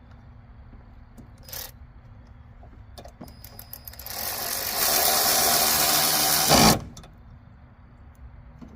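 A handheld power driver runs for about two and a half seconds, driving in a screw, with a short louder burst just before it stops as the screw seats. A click and a few light ticks come before it.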